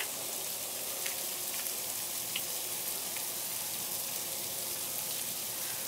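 Sleet (ice pellets) falling steadily: an even hiss with a few faint ticks of pellets striking.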